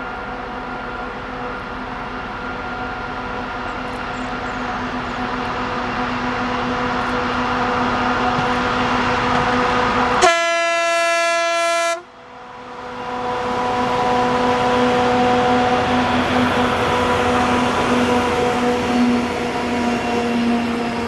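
Freight train approaching and running past with a steady rumble and a few steady whining tones, growing louder. About halfway through, the locomotive's horn sounds one blast of just under two seconds, then the train noise carries on.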